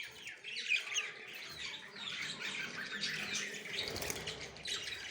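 A group of budgerigars chirping and chattering continuously, with many short, quick chirps overlapping.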